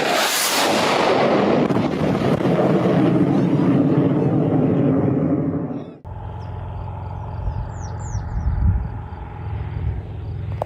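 A sudden loud blast, followed by a dense rushing noise that slowly dies away over several seconds. After an abrupt cut about six seconds in comes a steady low engine hum.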